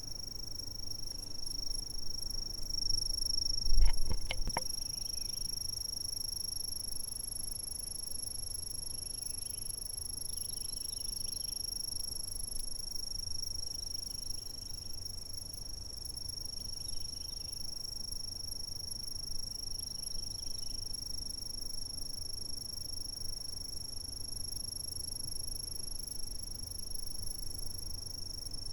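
Insects trilling in one unbroken, high-pitched steady tone, with a few fainter chirps now and then. A single sharp thump about four seconds in is the loudest sound.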